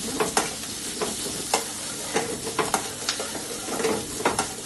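A stir-fry sizzling steadily in hot oil in a pan while it is stirred, with about a dozen sharp, irregular clicks and scrapes of the utensil against the pan.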